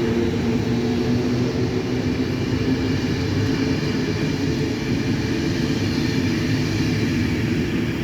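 Passenger train rolling through the station, a steady low rumble with a constant hum from the moving cars.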